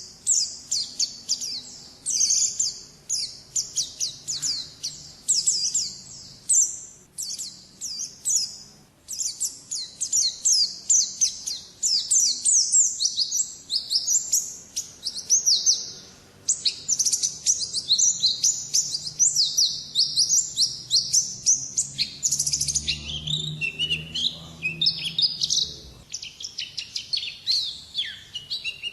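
White-eye (pleci) singing in the ngalas style: a long, rapid, nearly unbroken run of high twittering notes.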